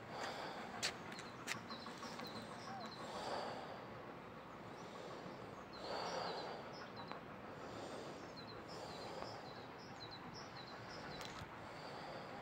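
Small birds chirping, short high notes repeated again and again over a faint outdoor background. A couple of sharp clicks sound near the start, and soft rushes of noise swell twice.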